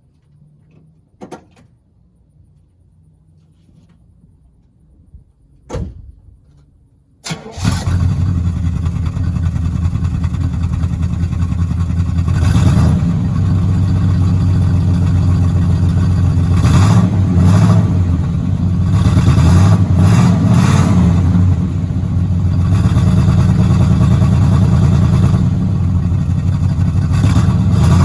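1971 Oldsmobile Cutlass S engine: two sharp clicks, then about seven seconds in the engine fires and settles into a steady run, with several brief throttle blips raising the revs.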